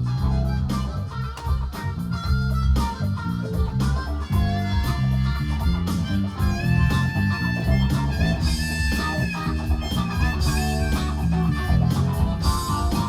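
Live rock band playing an instrumental passage: electric guitar over a steady bass line and drums, with long held high notes in the middle.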